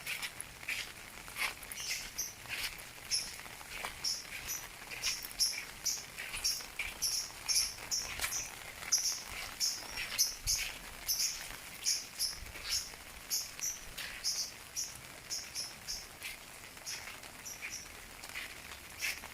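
Insects chirping in short high-pitched bursts, two or three a second, over a faint hiss of light rain.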